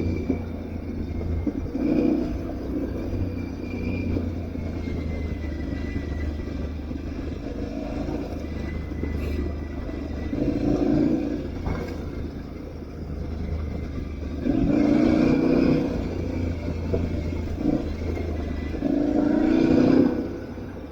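Aprilia Tuareg 660's parallel-twin engine running steadily under way, with the throttle opened in several surges, the strongest in the second half and just before the end.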